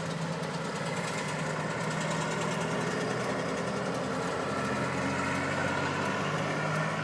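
Vehicle engines running with a steady hum that neither rises nor falls, heard from inside a car.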